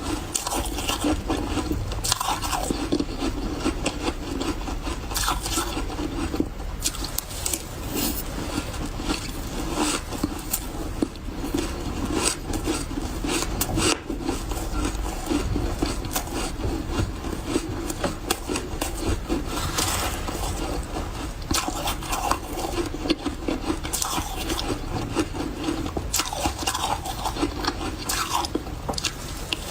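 Close-miked biting and chewing of refrozen powdery ice, a continuous run of irregular soft crunches.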